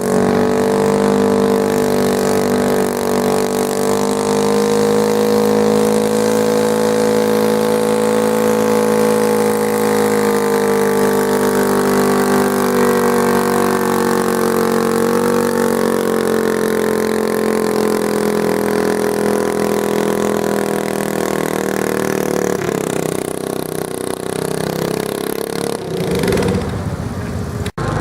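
Garden pulling tractor's engine running at high revs under heavy load while dragging the pulling sled, its pitch held steady for about twenty seconds and sagging slowly, then easing off near the end as the pull finishes.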